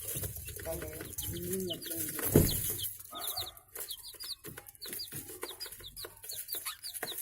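Budgies chirping: many short, quick high chirps repeating throughout, with lower bird calls underneath in the first couple of seconds. A single loud thump about two and a half seconds in.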